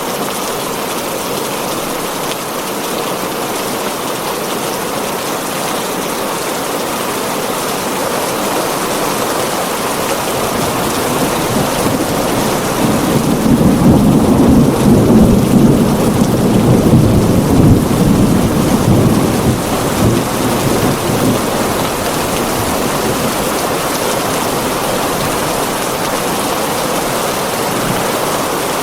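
Heavy rain pouring steadily on a tin roof, with a long roll of thunder that builds about ten seconds in, rumbles loudest for several seconds, and fades away.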